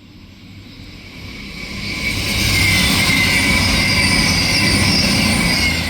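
A CrossCountry Class 221 Voyager diesel-electric train approaching and going by. Over about two seconds it rises to a loud, steady rush of wheels on rail and engine noise, with high whining tones over it.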